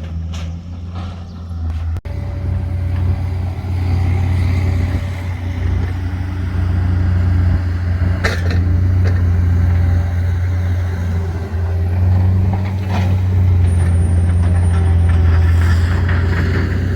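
A heavy engine running steadily, with a deep low hum and a couple of short knocks or clanks about eight and thirteen seconds in.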